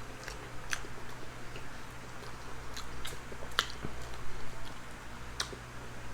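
Close-miked eating: chewing with scattered short wet clicks and lip smacks, a few a second apart.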